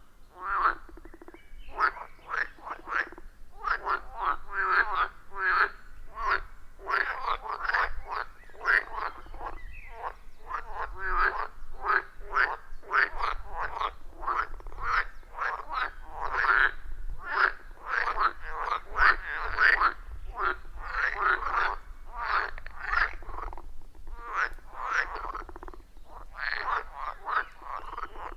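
A chorus of many frogs calling together, their croaks repeating rapidly and overlapping with hardly a gap.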